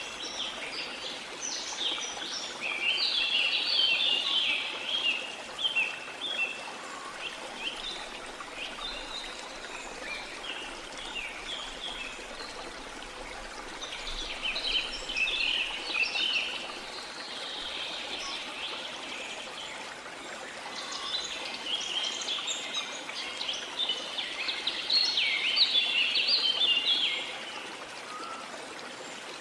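Steady rush of water with songbirds singing over it in three bouts of quick, high chirping notes.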